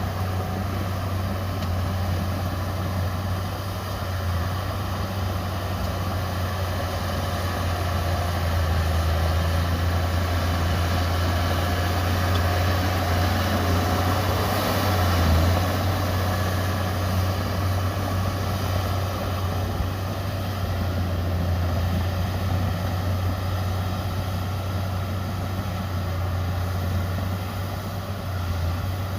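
Diesel engine of heavy earthmoving machinery running steadily, with a deep, even drone, slightly louder about halfway through.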